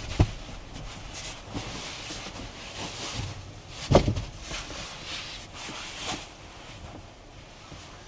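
Strong gusty wind that swells and fades, with two sharp thumps: one just after the start and a louder one about four seconds in.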